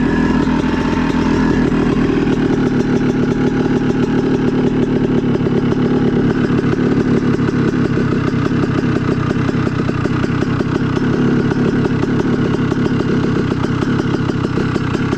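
CR250 two-stroke dirt bike engine running steadily at low revs, close to idle.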